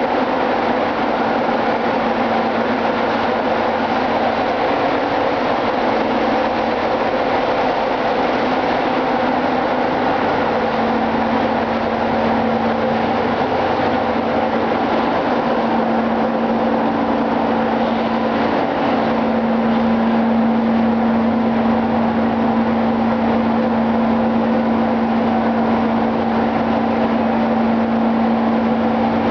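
Ship's engine-room machinery running steadily and loudly, with a steady hum that grows stronger about ten seconds in and again near twenty seconds, when the whole noise gets slightly louder.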